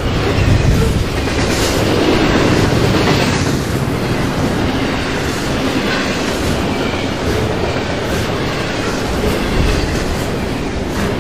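A train rolling past close by: a steady, loud rumble of wheels on rail with a repeated clickety-clack over the rail joints.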